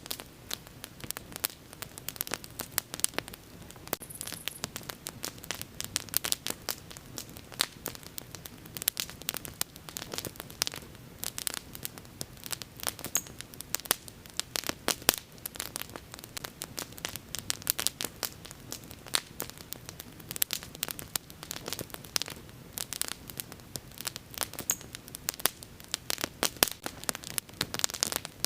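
Wood bonfire crackling: a dense, irregular run of sharp pops and snaps over a soft, steady hiss.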